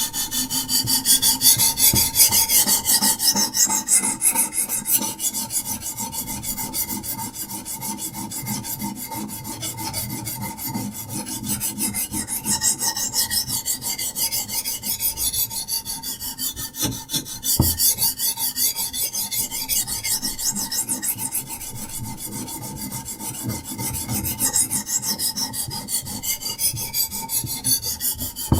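Diamond sharpening stone on a Hapstone RS guided sharpening system rubbing back and forth along a knife's edge: a continuous rasping scrape of fast, even strokes.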